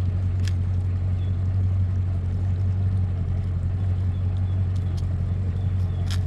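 A steady low engine hum, as of an engine left idling, with a few faint clicks.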